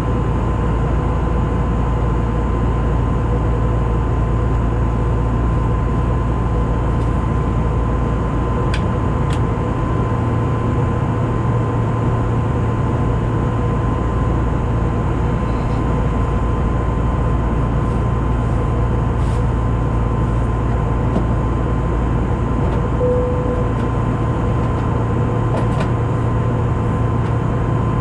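Steady cabin noise of an Airbus A320neo in cruise: a loud, even rush of airflow and engine drone with a deep rumble, a steady hum running through it and a few faint ticks.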